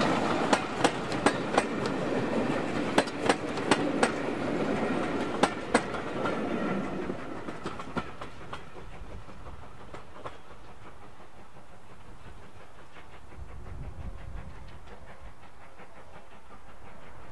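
A train running past with its wheels clicking over the rail joints, loud for the first several seconds and then fading away as it recedes.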